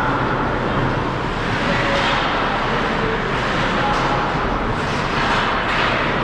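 Steady noise of an ice hockey rink during a game, with a few faint knocks near the end.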